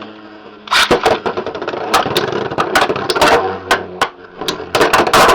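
Beyblade X spinning tops clattering in a plastic stadium, with a whirring spin under repeated sharp clacks of the tops striking each other and the stadium walls.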